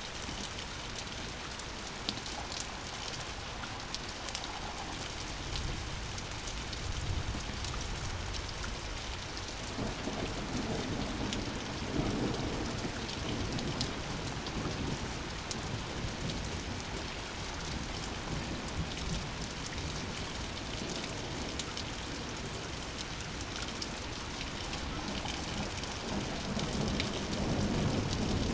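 Steady heavy rain falling on surfaces, with fine drop patter throughout and rolling thunder rumbling low several times, swelling about midway and again near the end.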